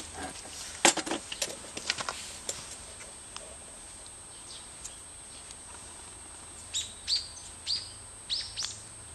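Several sharp clicks and taps in the first two seconds or so, the loudest about a second in. Then a bird calls with a run of about six short chirps, each sweeping down in pitch, near the end.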